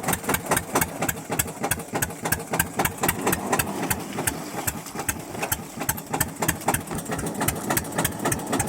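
Tractor engine running at a steady low speed, with an even, pulsing beat of about six to seven strokes a second.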